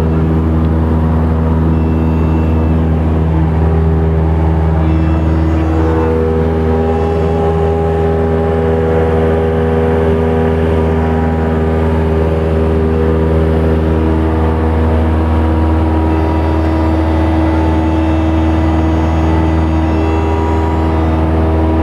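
Light aircraft's piston engine and propeller droning steadily at an even pitch, heard from inside the cabin.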